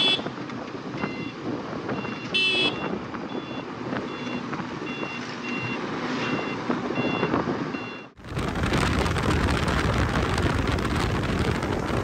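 Road traffic with a short vehicle horn blast about two seconds in, then a high electronic beep repeating about twice a second, like a reversing alarm. About eight seconds in the sound cuts to steady wind and road noise from riding.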